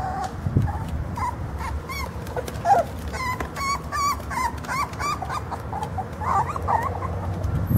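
Jack Russell Terrier puppies whimpering: many short, high squeaks that bend up and down in pitch, coming thick and fast.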